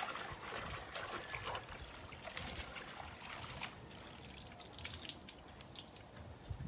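Faint water trickling and small splashes from a soapy wash cloth and bucket during a hand wash of a van.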